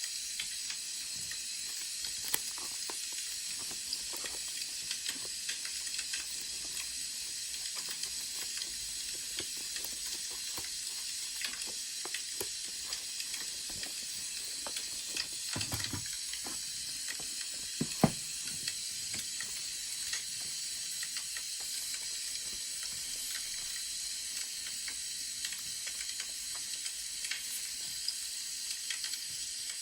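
Wood fire crackling: a steady hiss dotted with small pops and snaps, with a low thud and then a sharp knock a little past the middle.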